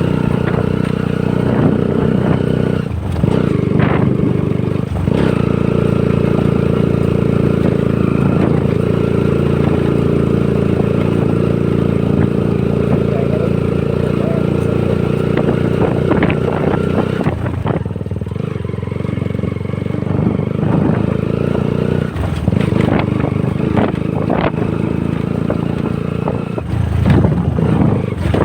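Honda CBR150R's single-cylinder four-stroke engine running while the bike is ridden, its note steady with a few shifts in pitch, with a few short knocks over it.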